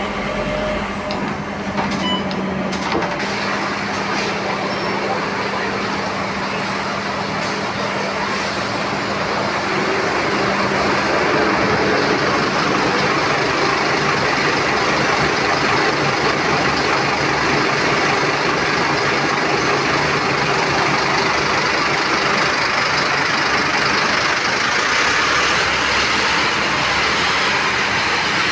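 Scania K230UB bus heard from inside while moving: a steady engine drone with road and body noise. A low engine hum fades out about halfway through, and the overall noise grows a little louder from about ten seconds in.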